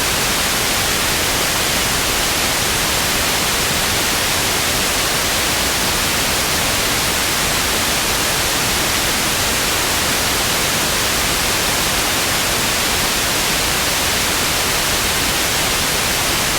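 Television static: a steady, even hiss of an untuned TV, loud and unchanging.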